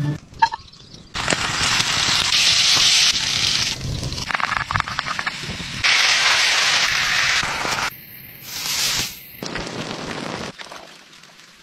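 Food sizzling and spitting in hot oil in a wide pan over an open fire, in several short stretches that start and stop abruptly.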